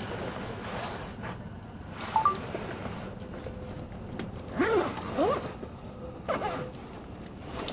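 Running noise inside the cabin of a JR Joban Line limited express train (E657 series) moving at speed: a steady rumble and hiss, with a few short sliding-pitch squeals about halfway through and again a little later.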